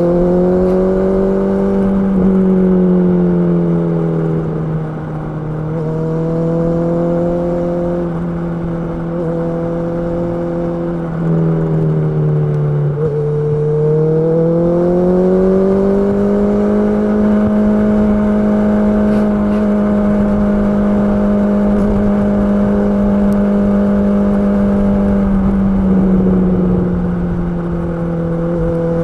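Honda CB650R inline-four engine running under way, its pitch rising and falling with the throttle: it eases off about two to five seconds in, dips again around twelve seconds, then climbs and holds a steady higher speed before easing off again near the end.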